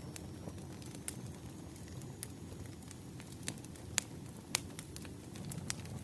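Firewood burning: a steady low rumble of flames with irregular sharp crackles and pops. The two loudest pops come near the middle.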